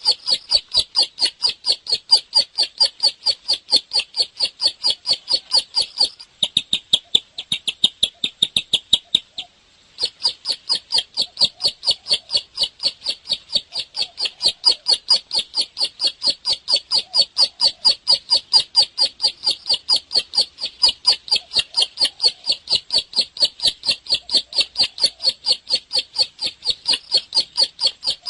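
Bar-winged prinia (ciblek) calling energetically: a fast, steady run of sharp, high chip notes, about four or five a second. The notes go softer for a few seconds, break off briefly about ten seconds in, then return at full strength.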